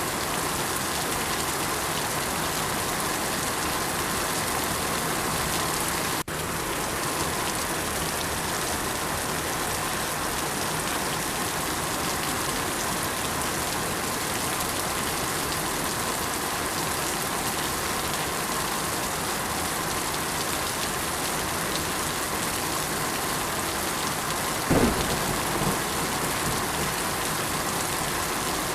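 Steady, even rain falling on surfaces. It cuts out for an instant about six seconds in, and there is a brief low thump near the end.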